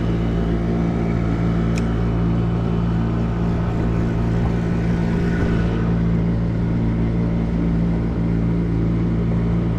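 A small boat's outboard motor running steadily at constant speed, an even engine hum with no change in pitch.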